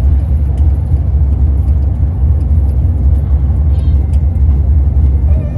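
Steady low rumble of a moving tour tram, heard from on board.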